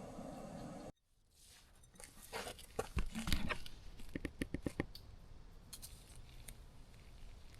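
Close handling noises: rustling and tearing with sharp clicks, including a quick run of clicks about four seconds in.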